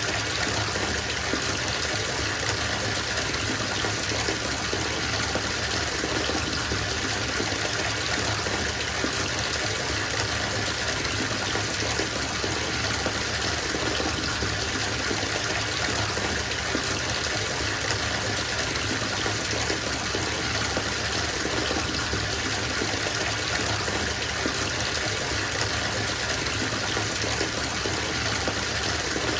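Bathtub filling from the tap: a steady, even rush of running water splashing into the tub.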